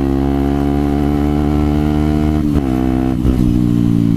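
Yamaha WR125 motorcycle's single-cylinder four-stroke engine running while riding, at steady revs. The revs dip briefly about two and a half seconds in, then settle a little lower.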